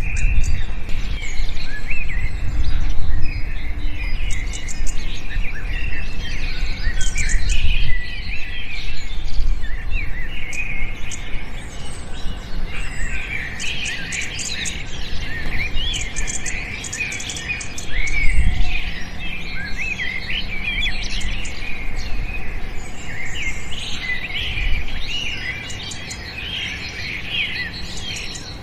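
Many small birds chirping and twittering at once, a dense, overlapping chorus of short high calls and quick pitch sweeps. A low rumble runs underneath, strongest in the first half and briefly swelling about two-thirds of the way in.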